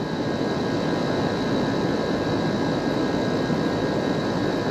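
Rooftop R-22 air-conditioning unit running under charge: a steady whir of its condenser fan and compressor, with a faint high hum held throughout.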